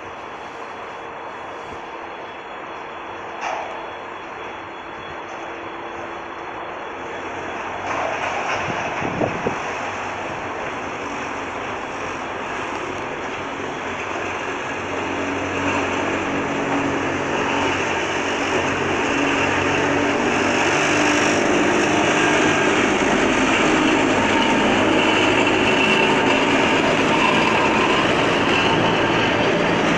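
2TE116 twin-section diesel locomotive hauling tank cars, its diesel engines running and growing steadily louder as it draws nearer, with a steady engine drone coming through clearly from about halfway. A few short knocks sound in the first ten seconds.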